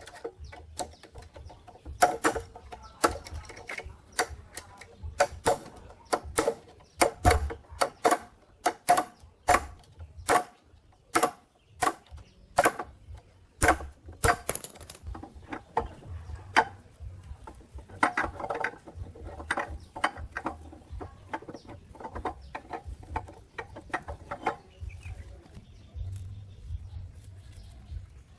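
Irregular metallic knocks and taps, some ringing briefly, from tools working metal parts. They come thick for the first half and grow sparser and fainter after about fifteen seconds, over a steady low hum.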